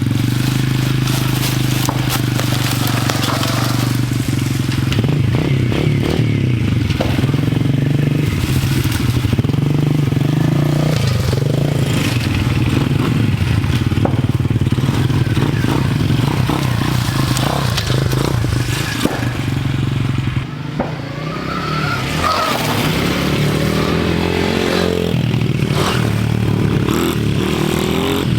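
Dirt bike engine running as it is ridden, its pitch shifting with the throttle and climbing a couple of times near the end.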